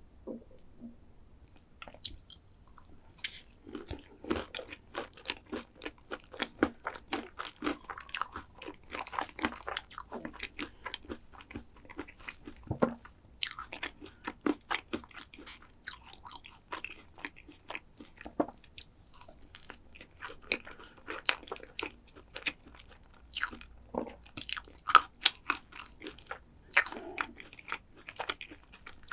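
Close-miked eating of chocolate desserts, with crisp crunching and chewing. After a quiet first two seconds come dense crackles, with sharper louder bites scattered throughout.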